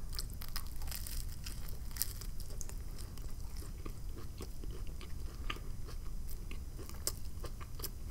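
Chewing a black bean patty sandwich on a crusty roll: a scatter of small, sharp crunches from the bread crust between bites.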